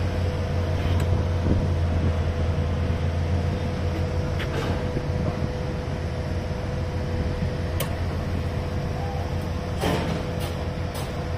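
Steady low drone of a running engine, with a thin steady high tone over it and a few sharp clicks near the end.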